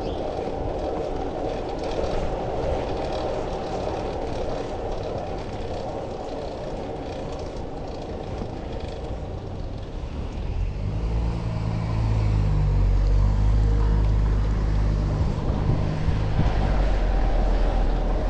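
Road traffic heard while riding: steady vehicle noise, joined about halfway through by a louder low engine rumble from a large vehicle running close by for several seconds.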